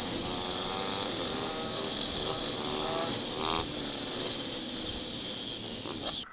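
Dirt bike engine running on a trail, its pitch shifting with the throttle, with a short rev about three and a half seconds in.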